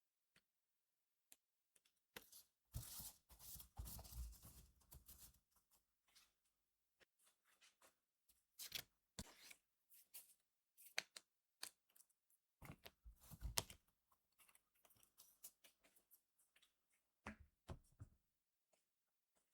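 Foil trading-card booster pack being torn open and crinkled, in two dense crackling bursts (a few seconds in and about two-thirds through), with scattered light clicks and rustles of cards being handled in between.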